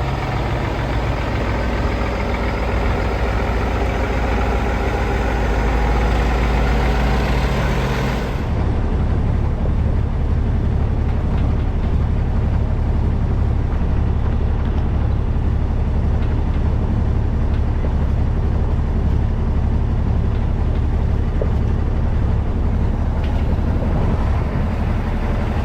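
Heavy diesel truck engine running steadily. About eight seconds in, the sound changes abruptly to a deeper, steady engine rumble with the high end cut away.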